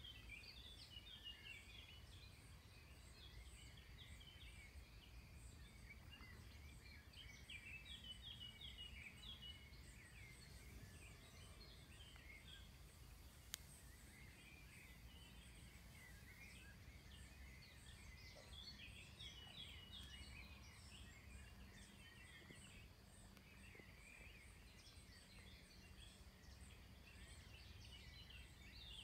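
Faint birdsong, many short chirps coming and going, over a low steady outdoor background noise, with one sharp click about halfway through.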